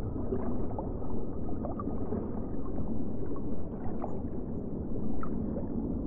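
Underwater ambience: a steady low rumble and wash of water, with a few faint clicks and brief high chirps.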